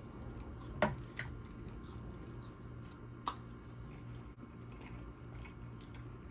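Close-miked wet chewing of sauced steak, with a few sharp mouth smacks, one just under a second in and another past three seconds.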